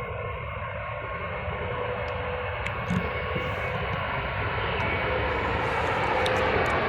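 Jet airliner's engines at takeoff power, a steady rushing rumble that grows gradually louder as the aircraft rolls down the runway.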